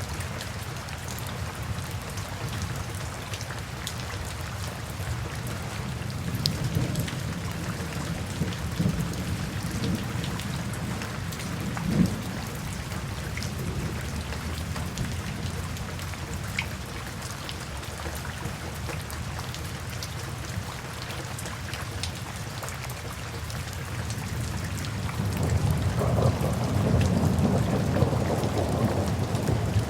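Steady rain with low rolls of thunder: a brief sharp crack about twelve seconds in, and a louder, longer rumble building near the end.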